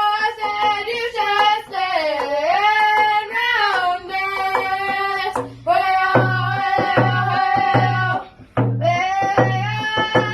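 A young singer's high voice singing a song in long held notes with sliding pitch, broken by short breaths. About halfway through, a steady drum beat joins at roughly two strokes a second.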